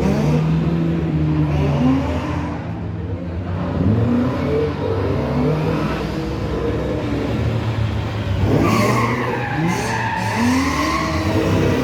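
Rally car engine revving hard up and down in quick bursts as the car drifts, with tyre squeal and skidding, growing loudest about nine seconds in.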